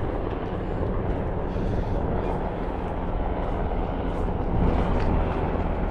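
Helicopter flying nearby: a steady low engine and rotor rumble with some wind noise.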